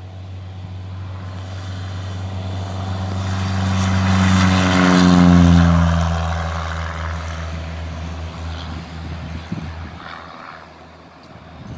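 Small propeller airplane flying past, its engine growing louder, loudest about five seconds in, then dropping in pitch as it passes and fading away.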